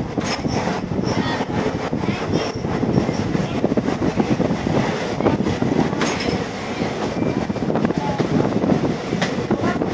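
Passenger train coach running along the rails, heard from inside at the window: a steady rumble from the wheels with continual rattling and clatter.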